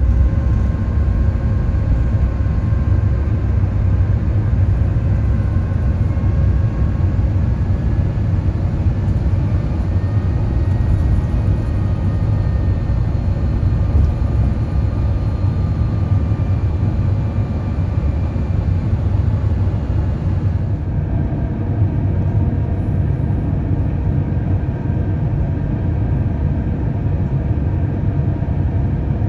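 Airbus A350-900 cabin noise in flight: a steady, loud rumble of Rolls-Royce Trent XWB engines and airflow, with faint whining engine tones that slowly drift in pitch. About 21 seconds in, the high hiss drops away and the rumble continues.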